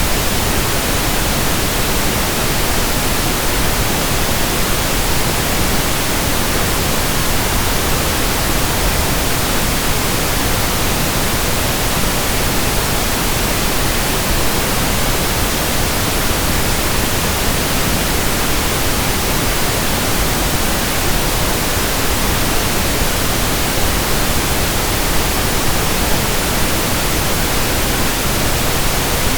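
Steady synthetic pink noise: an even, unchanging hiss spread across the whole range, with no breaks or changes.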